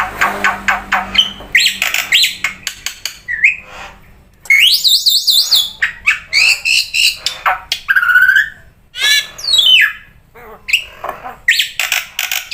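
Black-winged myna (jalak putih) singing loudly: a varied run of harsh squawks and chattering clicks mixed with whistled glides, with a fast repeated warbling phrase about halfway through.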